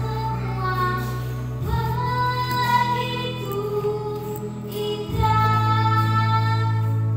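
A child singing a slow melody in long held notes over sustained accompaniment chords that change twice.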